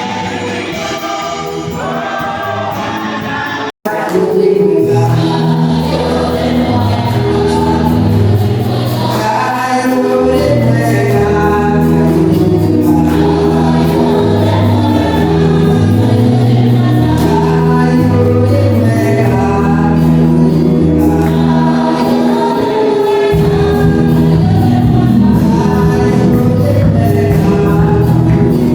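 Gospel choir music: a choir singing over instrumental backing with a steady, stepping bass line. About four seconds in, one piece cuts off sharply and a louder one starts.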